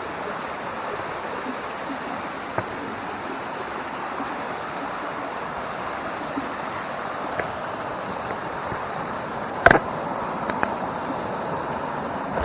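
Steady rushing of a jungle stream and small waterfall. A single sharp knock sounds late on.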